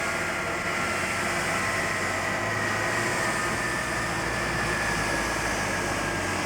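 Avro Vulcan B2 XL426's Rolls-Royce Olympus turbojets running: a steady rush of engine noise with a high whine that falls slowly in pitch.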